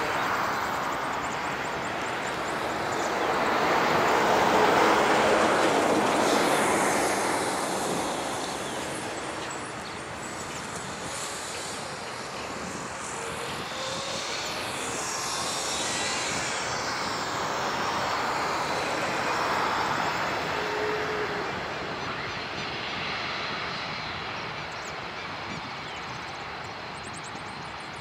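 Jet engines of a Boeing 747-8F freighter, a steady rushing noise that swells twice, loudest about five seconds in and again near twenty seconds, with a sweeping change in tone in between as the aircraft moves past.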